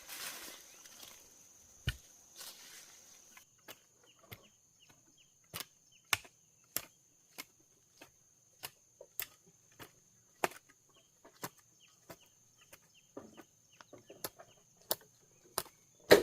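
Blade strokes chopping bamboo: sharp, evenly paced knocks, about three every two seconds, after a few seconds of rustling. A steady high insect drone runs underneath.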